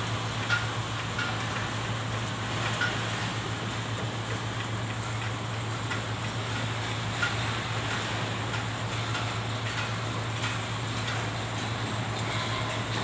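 Stick (shielded metal arc) welding on 10-inch galvanized steel pipe with a 4 mm electrode: a steady arc crackle with scattered sharp pops over a constant low hum.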